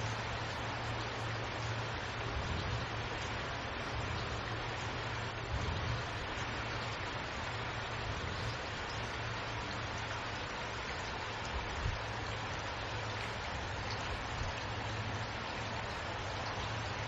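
Steady rain: an even hiss with a low rumble beneath it, and a couple of slightly louder drops about six and twelve seconds in.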